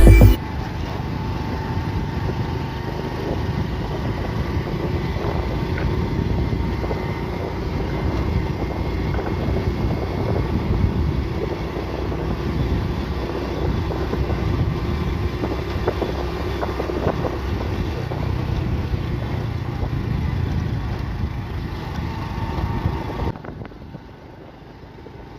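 Motorcycle riding, its engine running under heavy wind noise on the microphone. Near the end it drops to a quieter low rumble.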